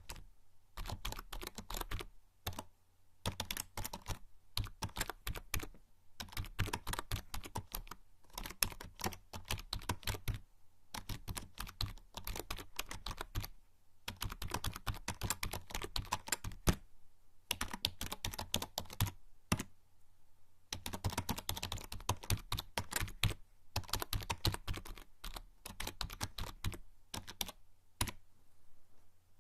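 Typing on a membrane computer keyboard: quick runs of soft key clicks in bursts of a few seconds, broken by short pauses.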